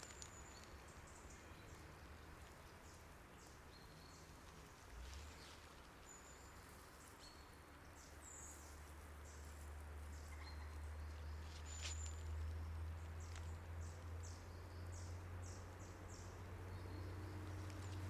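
Faint birdsong: short, high chirps and ticks scattered through, over a low steady rumble that sets in about five seconds in and grows louder.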